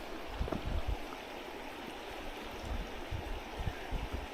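River water rushing and gurgling steadily over rocks, with a few soft low thuds now and then.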